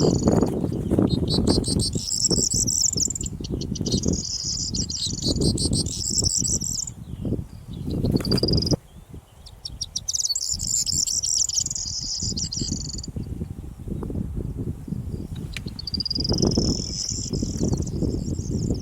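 Corn bunting singing its jangling, rapidly ticking song in repeated phrases of one to three seconds, over heavy wind buffeting the microphone.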